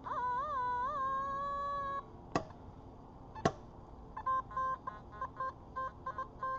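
Metal detector sounding on a target: a wavering, warbling tone for the first two seconds, two sharp knocks, then a string of short, choppy beeps from about four seconds in as the coil sweeps over buried metal, here two signals close together.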